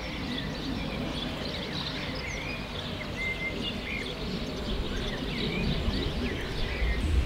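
Several small birds chirping and trilling in quick short calls, over a low steady rumble.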